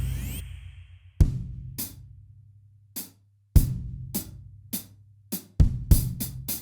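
Sampled acoustic drum kit from EZDrummer 3's Alchemy of Pop EZX (Aer 1 kit) playing a slow, sparse beat: deep kick drum hits that ring on low, with snare and hi-hat strokes between them, through a warm, hot-sounding mix preset.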